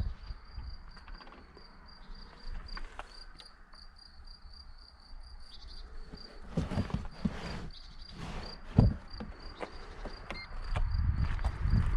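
A faint high chirp repeating evenly about three times a second, over scattered knocks and clicks, the loudest knock about nine seconds in.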